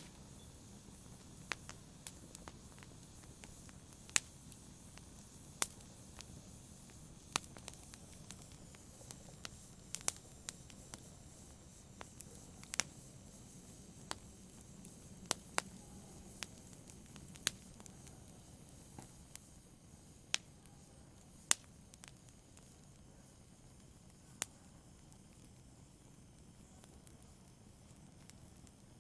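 Wood fire burning, with sharp irregular crackles and pops over a soft low rumble of flame; the pops thin out near the end.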